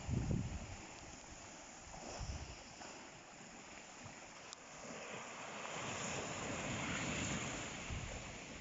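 Atlantic ocean waves washing onto the shore: a wash of surf that swells up through the middle and peaks near the end before easing. Low buffets of wind on the microphone near the start and about two seconds in.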